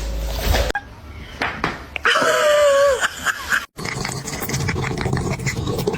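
A cat's drawn-out meow about two seconds in, lasting about a second and falling in pitch at the end.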